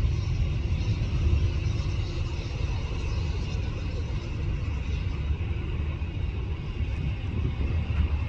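Steady low rumble of a jet airliner's engines, with a hiss above it.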